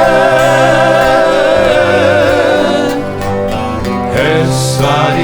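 Male vocal group holding the last note of a sung line with vibrato over strummed acoustic guitars. About three seconds in the voices stop and the guitars carry on alone.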